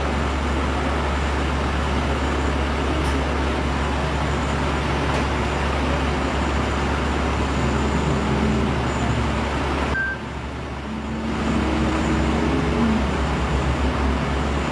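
Street traffic noise with a steady low rumble, briefly dropping away for about a second near ten seconds in.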